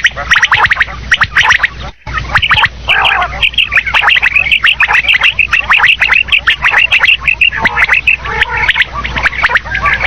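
Common quail calling loudly, with rapid chattering call notes packed closely and overlapping. There is a momentary break about two seconds in.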